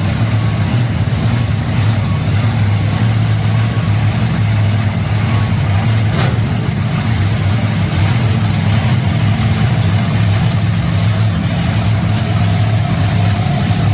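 Monster truck engines running with a steady, loud low drone that barely rises or falls. A single sharp crack about six seconds in.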